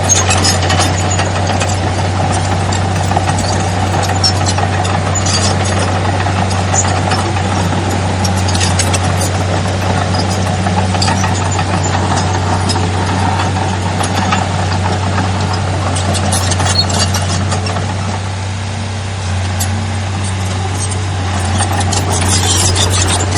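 Heavy diesel engine of earthmoving machinery running steadily, with scattered metallic clanks and rattles; the engine eases off briefly about three-quarters of the way through, then picks up again.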